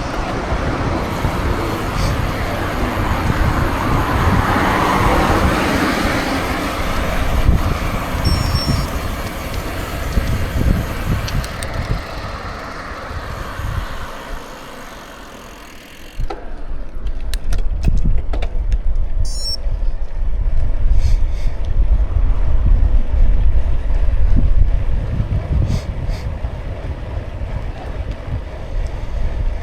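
Wind buffeting the microphone of a bike-mounted camera, mixed with tyre noise on the road. The noise swells about five seconds in, then dips. About halfway through it changes suddenly to a heavier, deep wind rumble with scattered small clicks.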